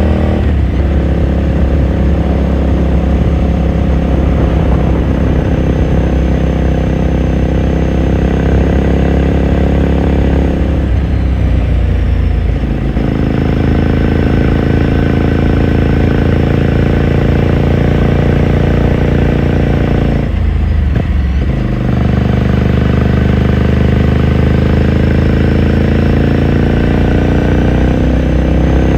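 2018 Ducati Scrambler Sixty2's air-cooled 399 cc V-twin exhaust while riding, running at a steady pitch. The note breaks briefly twice, about eleven and twenty seconds in, then picks up again, and the engine speed rises near the end.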